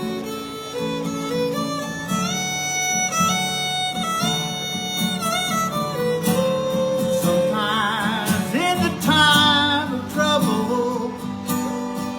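Instrumental break in a slow country song: a fiddle plays the melody, with vibrato on held notes, over acoustic guitar accompaniment.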